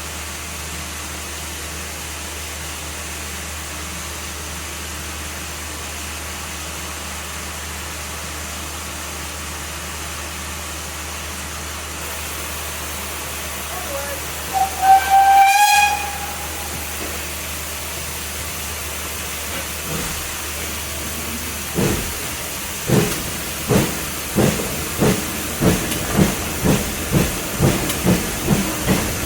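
Steam locomotive standing with a steady hiss of steam, giving one short whistle about halfway through, then starting away with exhaust chuffs that come faster and faster as it gathers speed.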